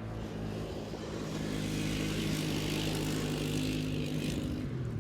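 Four-wheeler (ATV) engine running as it drives by, a steady engine tone that grows louder from about a second in and fades near the end.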